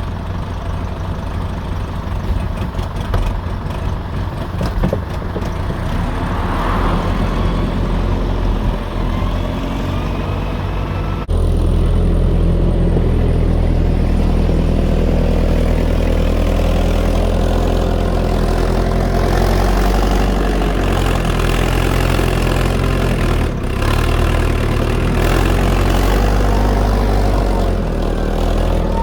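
Fordson E27N tractor's Perkins P6 six-cylinder diesel engine running, its speed rising and falling. The sound changes abruptly about 11 and 23 seconds in, where the footage is cut.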